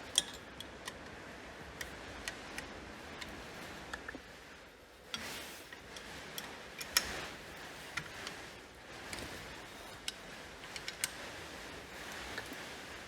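Irregular sharp metallic clicks and taps of a 12 mm spanner working the nuts that hold the lower unit on a Suzuki DF4 outboard as they are undone.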